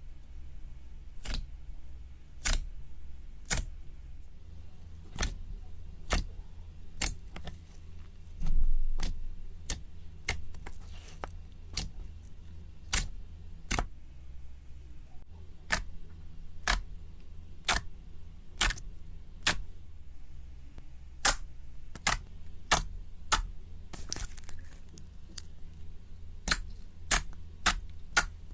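Slime being handled, giving a long run of sharp clicking pops, roughly one or two a second, with a louder crackling squish about eight seconds in.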